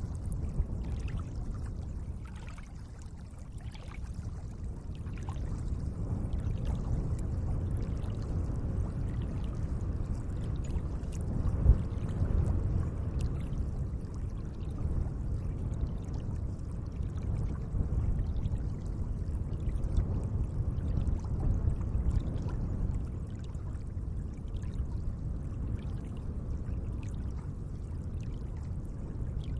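Gentle lake water moving and splashing softly, swelling and easing in level, with one brief low thump about twelve seconds in.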